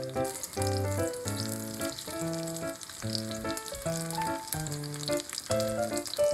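Seafood green onion pancake frying in oil in a pan, with a steady crackling sizzle, under background music.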